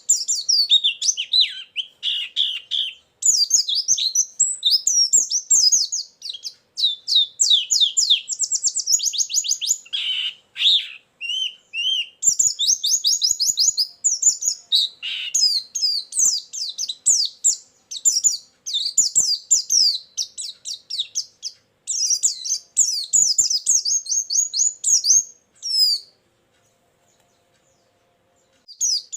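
White-eye (pleci) singing a fast, high-pitched warbling song of rapid chirps and trills in long unbroken phrases. It is a lure song packed with learned filler phrases. The song stops near the end for about three seconds.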